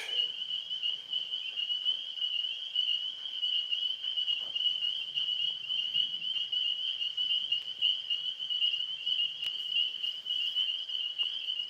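Steady night chorus of tree frogs: a continuous, high-pitched pulsing trill.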